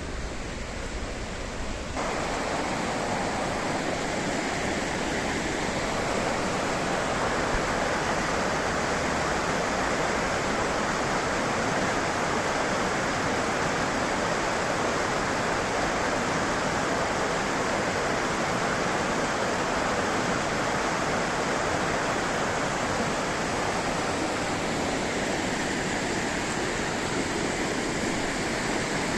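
Mountain river rushing steadily through a valley, a constant dense roar of flowing water that steps up in level about two seconds in.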